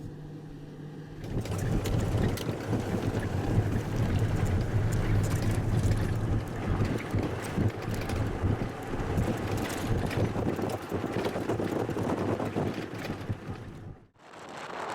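Motorboat engine running with wind rushing over the microphone as the boat moves. It cuts off abruptly near the end.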